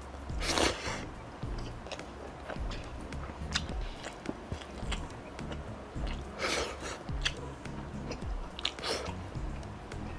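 Close-up mouth sounds of a person chewing and biting food, rice and grilled meat eaten by hand, with many small wet clicks throughout. Three louder, longer noises come about half a second in, about six and a half seconds in and around nine seconds.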